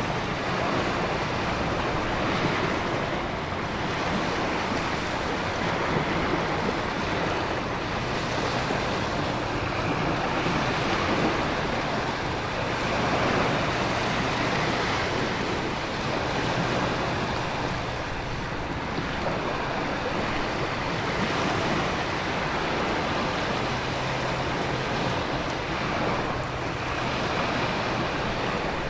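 Storm ambience: a continuous wash of heavy rain, wind and ocean surf, swelling and easing every few seconds.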